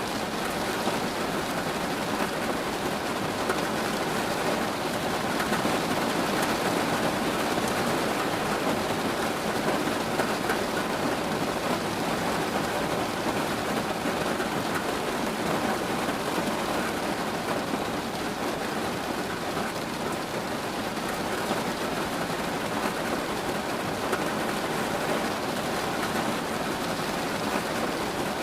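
Steady rain falling, an even, unbroken patter with no single drops or claps standing out.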